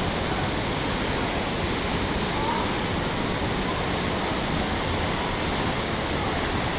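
A waterfall running: a steady, even rush of falling water.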